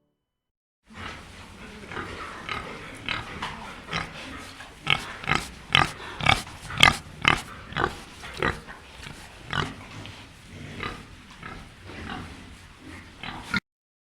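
Pig grunting: a quick run of short grunts, several a second, starting about a second in, loudest in the middle, and stopping abruptly just before the end.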